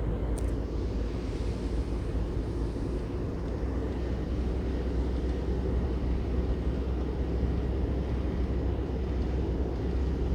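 A vehicle driving on a mountain road: steady low engine and road rumble.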